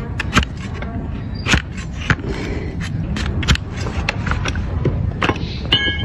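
Donkey hoof being trimmed: irregular sharp clicks and scrapes of a trimming tool cutting into the hoof horn, with a brief high ringing near the end.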